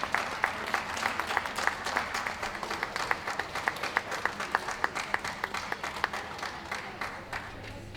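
Audience applauding steadily, with many individual hand claps standing out; the applause fades a little toward the end.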